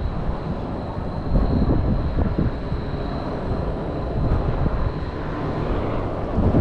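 Propeller or jet aircraft engine noise from an air show flyover: a steady rumbling drone with wind buffeting the microphone.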